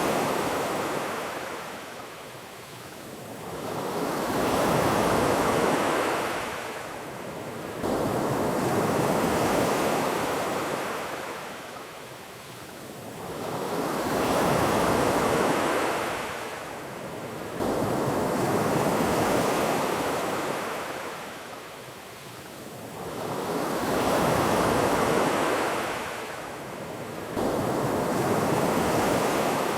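Ocean waves washing onto a beach, a rushing surf that swells and ebbs about every five seconds.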